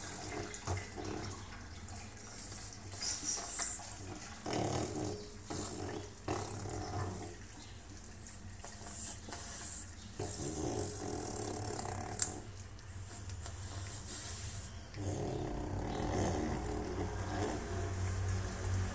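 French bulldog snoring and snorting in rough breaths, in several spells of a few seconds each, the noisy breathing typical of this flat-faced breed. Water splashes and runs now and then.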